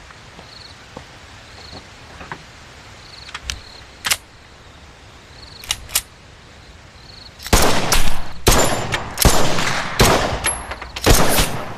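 A firearm fired at a target in a rapid string of about eight shots, roughly two a second, starting a little past halfway, after a few faint sharp clicks. Crickets chirp faintly underneath.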